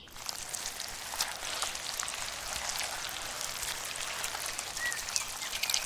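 Steady pattering noise like rain or splashing water, dotted with many small ticks, with a faint short whistle about five seconds in.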